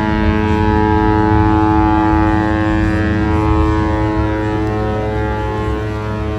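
The cruise ship Mein Schiff Relax's horn sounding one long, loud, steady blast, a deep chord of many tones. It is the horn signal the ship gives as she leaves port.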